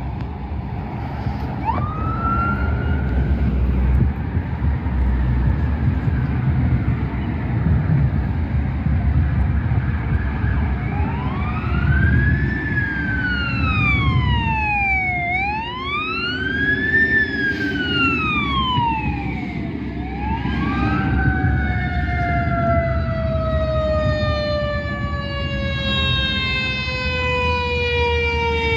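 Fire truck siren over the rumble of the truck's engine: a short rising chirp early, then a wail rising and falling twice, then a long, slowly falling tone as the siren winds down.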